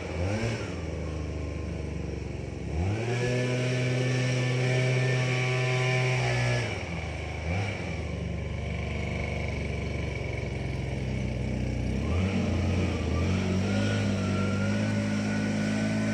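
Tractor engine running, its speed raised and lowered by hand. It revs up to a higher steady speed about three seconds in, drops back to a lower speed after about three and a half seconds, gives a brief blip, then revs up again about twelve seconds in and holds there.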